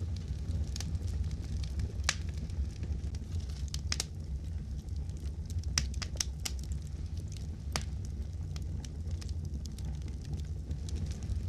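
Wood fire crackling in a fireplace: sharp pops at uneven intervals, several of them bunched around the middle, over a steady low rumble.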